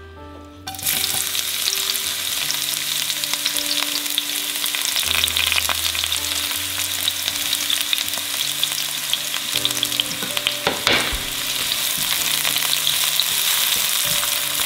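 Sliced shallots and garlic sizzling in hot oil in a nonstick wok, starting suddenly about a second in as they go into the pan, then frying steadily while a spatula stirs them, with a few sharp clicks of the spatula.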